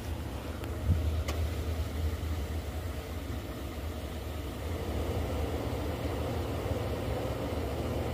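Motor vehicle engine idling steadily as a low hum, with a short thump about a second in.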